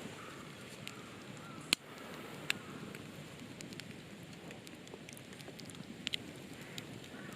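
Faint steady rustling with a few sharp clicks and pops, the loudest a little under two seconds in.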